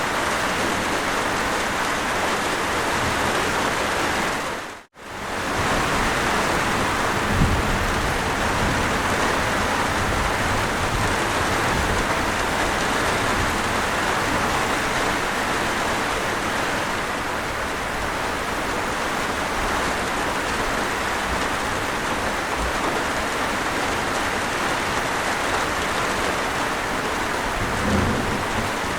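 Steady rain, an even wash of noise that cuts out for a moment about five seconds in and comes straight back. Two brief low thuds, one a couple of seconds after the gap and one near the end.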